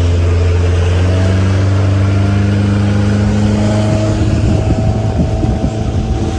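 Motorboat engine running and speeding up, its pitch rising steadily for a few seconds. In the second half, rushing wind buffets the microphone.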